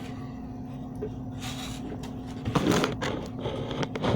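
Close-up eating sounds: chewing and mouth noises in a couple of short bursts, with a few small clicks, over a steady low hum.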